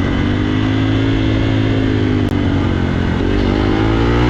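Motorcycle engine running at steady revs, rising in pitch slightly near the end as it is revved up.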